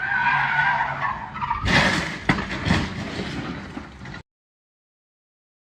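A car's tyres squealing, then a crash of loud bangs and clatter about two seconds in. The sound cuts off abruptly to silence a little after four seconds.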